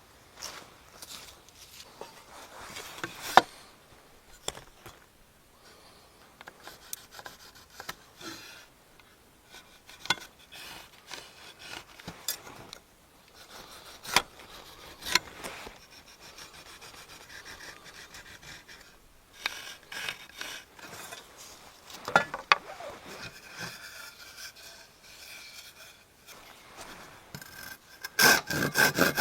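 Hand work on wood: intermittent scraping and rubbing with occasional sharp knocks. Near the end, fast, regular hand-saw strokes begin.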